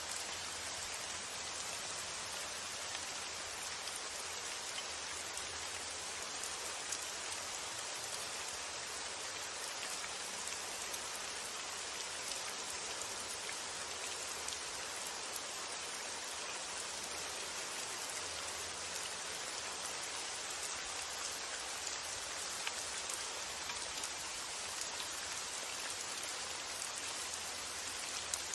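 Steady rain falling, an even hiss with now and then a sharper drop ticking out above it.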